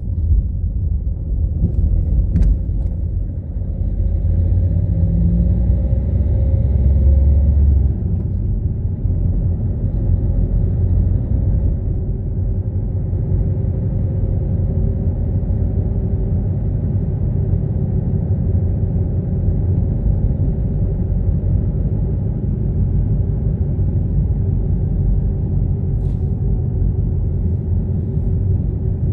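A car driving: a steady low rumble of engine and road noise, which swells for a few seconds about four seconds in, then settles back.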